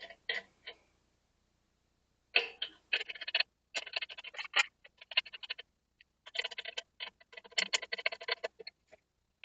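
Socket ratchet wrench clicking in several quick runs with short pauses between them, as bolts are turned down during reassembly of a car's wheel hub.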